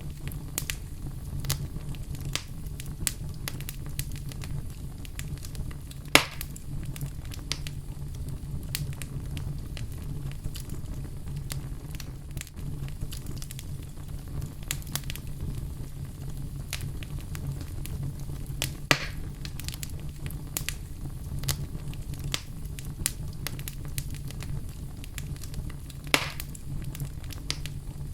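Wood fire crackling in a fireplace, with a steady low rumble under constant small snaps. Three louder pops stand out, at about six, nineteen and twenty-six seconds in.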